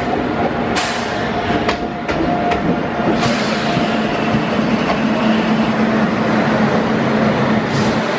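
Train running along the track: a steady rumble of wheels on rails with a low hum and a few sharp clicks.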